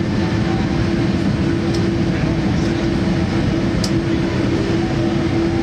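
Steady rumble of a vehicle, heard from inside, with a constant droning hum.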